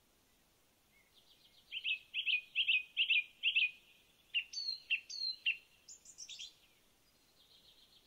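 A songbird sings one phrase of about five seconds, starting a second in: a quick run of repeated chirping notes, then a few slurred notes, ending on higher, thinner notes.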